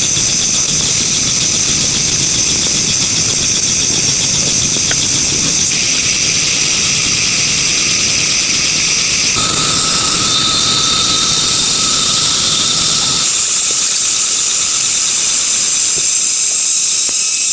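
Loud, steady, high-pitched insect chorus, buzzing with a fine rapid pulse, whose pitch and texture change abruptly a few times.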